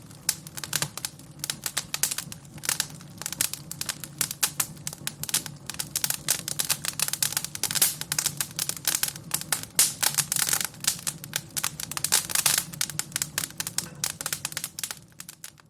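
Fire crackling: dense, irregular pops and snaps, some sharper and louder than others, over a faint low steady hum, fading out near the end.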